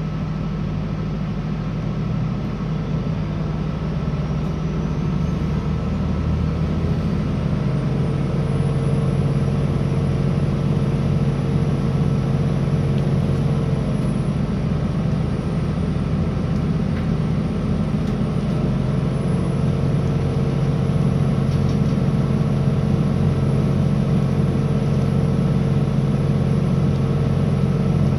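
Interior running noise of a CAF Class 3000 diesel multiple unit at speed: a steady drone from the underfloor diesel engine and transmission, mixed with wheels on the rails. It grows a little louder over the first several seconds and then holds steady.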